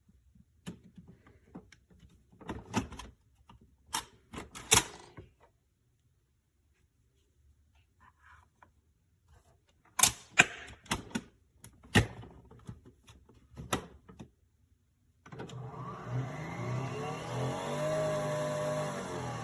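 Clicks and knocks of handling a small appliance. A little over fifteen seconds in, a small electric motor starts and runs steadily with a hum that rises and falls slightly in pitch.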